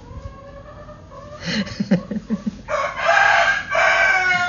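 A rooster crowing: one long call, broken once in the middle, starting a little past halfway. It is preceded by a few short, low clucks.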